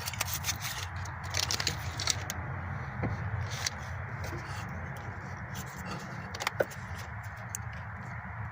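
Small clicks and scrapes of hands working at plastic wiring-harness connectors in a car's engine bay, thick at first and then sparser, with one sharper click about six and a half seconds in, over a steady low background hum.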